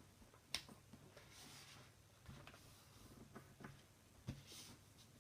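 Faint sounds of a sheet of paper being folded and creased by hand: a few sharp taps and clicks, with short soft rustles of the paper in between.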